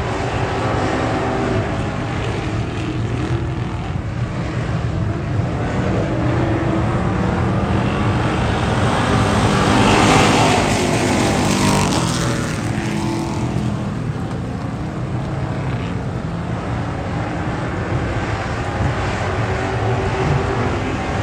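Race car engines running on track, loud and steady, with one car passing close and loudest about ten seconds in.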